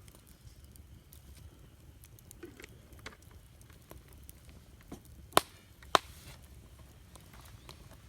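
Wood campfire crackling with scattered small pops, and two sharp, loud pops about five and six seconds in, over a low steady rumble.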